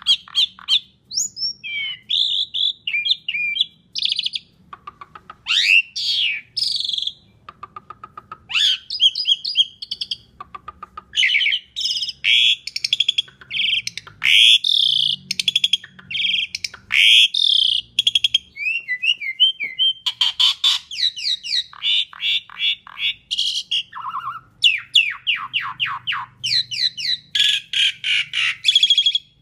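Asian pied starling singing a loud, varied song: rapid runs of short chattering notes, rising whistled glides and trills, in phrases with brief pauses between them.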